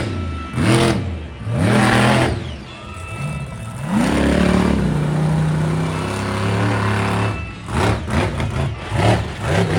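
Monster truck engine revving hard in repeated throttle swells, then holding a steadier note before a run of quick rev blips, about two a second, near the end.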